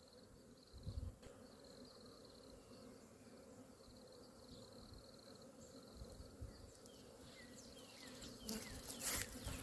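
Honeybees buzzing faintly around an open hive, a steady low hum. A knock about a second in, and a few louder knocks and rustles near the end.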